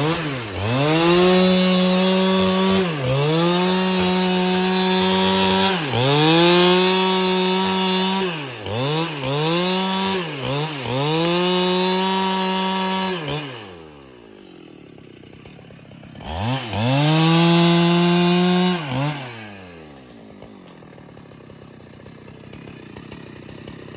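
Husqvarna 395XP two-stroke chainsaw held at full throttle in bursts of a few seconds, the revs dipping briefly between them, then dropping to idle about 13 seconds in. It revs up once more for about three seconds and falls back to idle.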